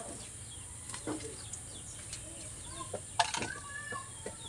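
Chickens clucking with a few short calls, and a sharp click about three seconds in.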